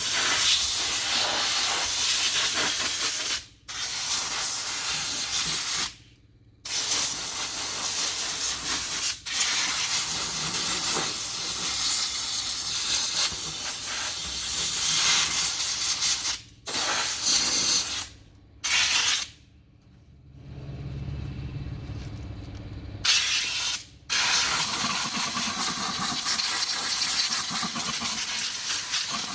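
Loud, steady hissing of pressurised air or spray in long bursts, cutting off and starting again several times, with a low hum during one quieter stretch.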